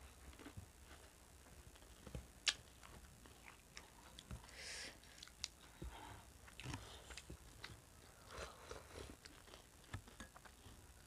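Quiet close-up eating sounds: chewing and biting of spoonfuls of potato curry with fried bhuja, with short clicks of steel spoons against steel bowls. The sharpest click comes about two and a half seconds in.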